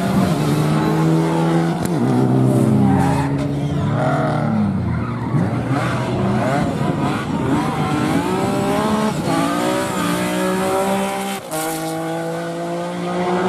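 Rally car engine revving hard, its pitch climbing and dropping again and again through gear changes, with a brief cut and a sharp crack near the end.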